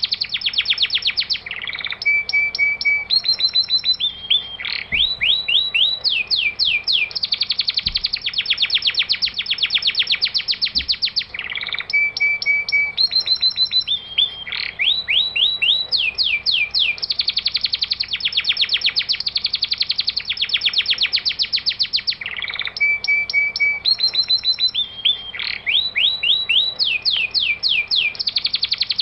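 Looped birdsong tutoring recording ('masteran') for songbirds. Rapid runs of high falling whistles alternate with short steady notes and trills, and the same phrase repeats about every ten and a half seconds.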